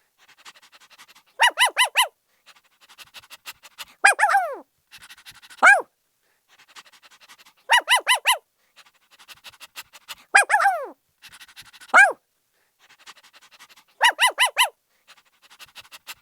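Puppy barking in high-pitched yaps. A quick run of four short barks is followed by a yelp that falls in pitch and then a single sharp bark, with faint rapid sounds in between. The same sequence repeats about every six seconds.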